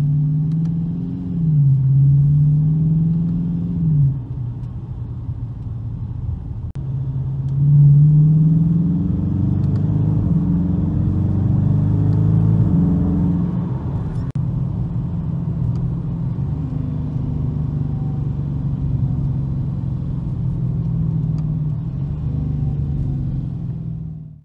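Dodge Challenger's engine heard from inside the cabin while driving, climbing in pitch and dropping sharply a few times in the first several seconds as the automatic transmission shifts through the paddle shifters, then running at a steady cruise.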